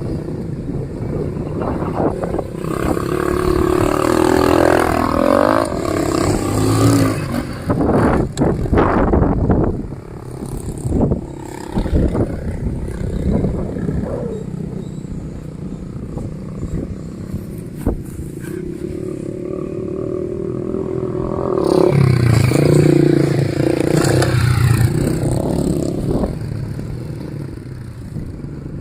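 Dirt bike engines revving, the pitch rising and falling, with two louder stretches: one a few seconds in and another near the end.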